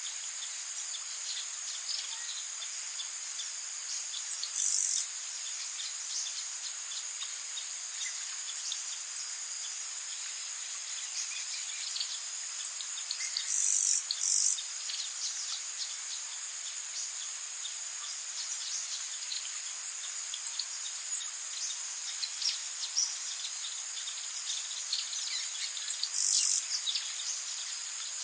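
Tropical rainforest ambience: a steady high drone of insects, with short, louder insect calls about five times, over rain pattering and dripping and a few bird chirps.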